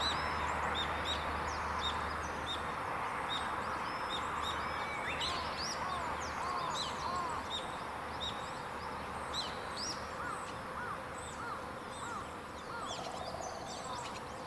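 Several wild birds singing in a mountain forest: many short, high, repeated notes overlapping, with a run of lower arching whistles in the second half, over a steady background hiss.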